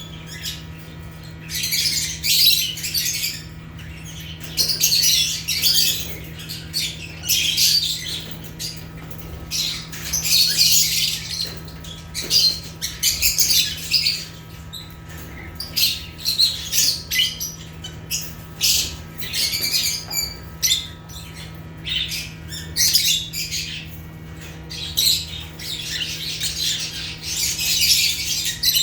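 Lovebirds (Agapornis) calling in quick, high-pitched squawks and chirps that come in bursts every second or so, over a steady low hum.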